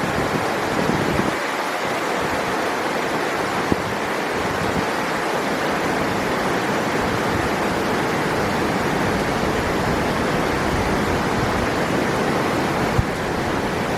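River water rushing steadily. Two brief clicks stand out, one about four seconds in and one near the end.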